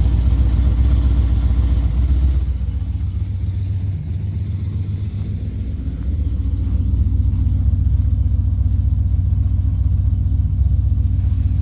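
Pickup truck engine idling steadily on a cold start, its exhaust cutouts being closed, only one of which works. The exhaust note softens about two and a half seconds in, dips around four seconds, then settles back to a steady idle about six seconds in.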